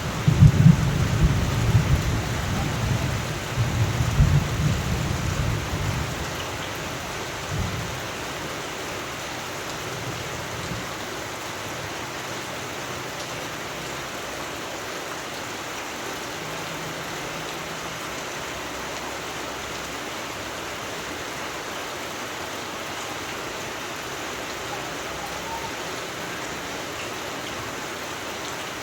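Steady rain falling, with a low rumble of thunder that dies away over the first six seconds or so.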